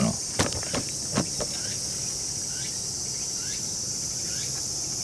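Steady, high-pitched chorus of insects such as crickets, with a few sharp clicks or knocks in the first second and a half.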